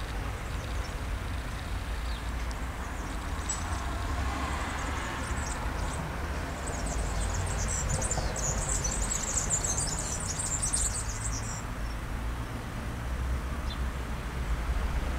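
Small birds chirping rapidly and high-pitched for several seconds in the middle, over a steady low rumble.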